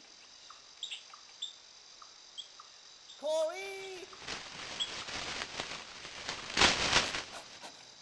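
Scattered short, high bird chirps over a faint background. A voice shouts about three seconds in, then a noisy rushing sound swells up and is loudest near the seven-second mark.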